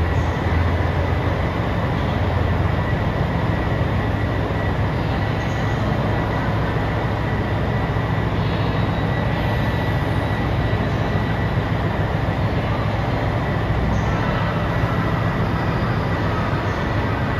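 KiHa 283 series diesel limited express train running at a steady speed: an even rumble of engine and wheels with a faint, steady high whine.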